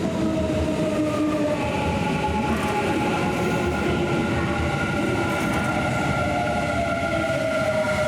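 Kintetsu electric commuter train running through the station: a steady rumble with a motor whine of several tones that falls slowly in pitch.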